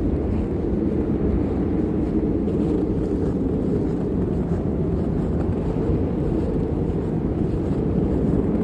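Snowstorm wind blowing steadily across the microphone, a continuous low rumbling rush.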